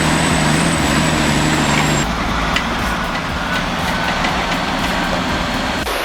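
Loaded logging truck's engine running hard under load. The sound changes abruptly about two seconds in, with a steady high whine dropping out, and changes again just before the end.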